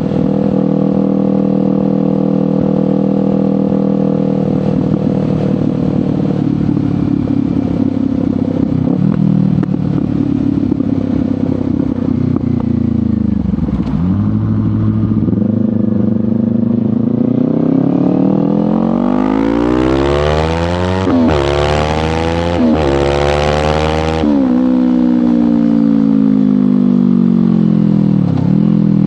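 Kawasaki Ninja 500's parallel-twin engine through a LeoVince GP Corsa Evo slip-on exhaust, cruising steadily, then easing off. From about two-thirds of the way in it accelerates hard, revs climbing with three quick upshifts in a row, then it settles back to a steady cruise.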